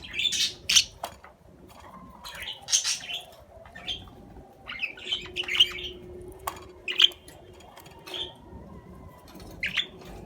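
Budgerigars chirping in short, irregular high-pitched calls, which stop just before the end.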